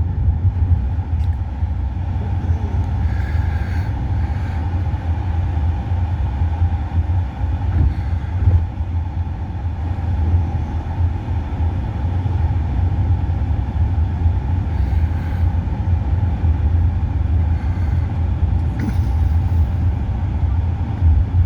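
Steady low rumble of a moving road vehicle, engine and road noise.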